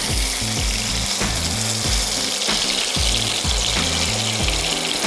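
Salmon loin searing in a little hot oil in a frying pan, a steady sizzle, over background music with a regular beat.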